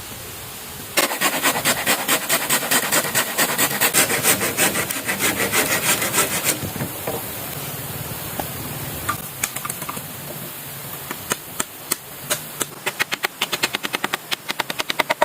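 Hand saw cutting through bamboo in fast back-and-forth strokes, several a second; the sawing pauses midway, then starts again and speeds up near the end.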